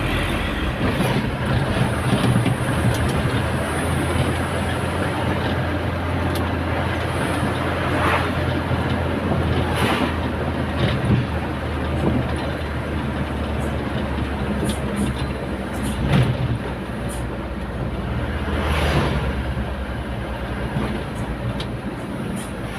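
Truck engine running steadily while driving, with road and wind noise, and a few brief louder swells.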